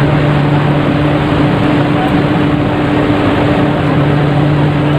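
Steady drone aboard a passenger ship: a constant low engine hum under a broad, even rumble, with faint voices mixed in.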